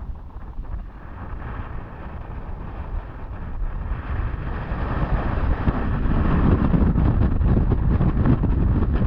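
Wind rushing over the microphone and the rumble of an Intamin roller coaster train running along its track, growing louder about halfway through as the train gathers speed.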